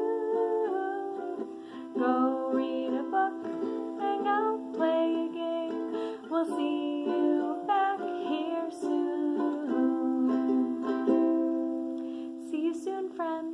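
Ukulele strummed in a small room, playing a children's goodbye-song tune, with a last chord ringing out near the end.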